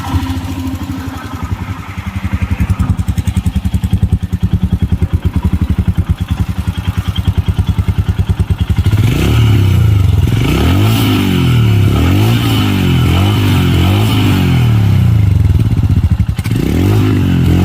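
Royal Enfield Himalayan's single-cylinder engine idling with an even thump from its exhaust, then revved in a series of throttle blips from about nine seconds in, the pitch rising and falling with each blip; one more blip near the end.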